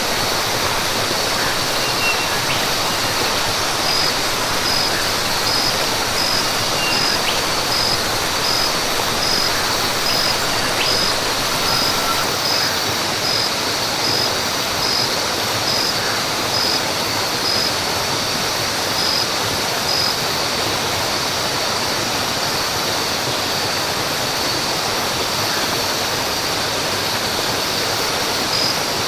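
Steady rush of falling water in a rainforest soundscape, under a constant high insect drone. A high chirp repeats evenly about twice a second through the first two-thirds and again near the end, with a few faint bird chirps.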